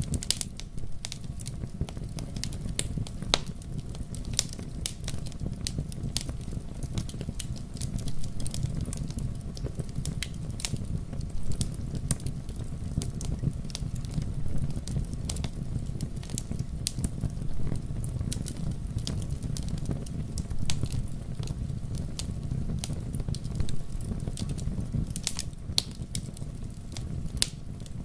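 Campfire crackling, with many sharp irregular pops and snaps over a steady low rumble.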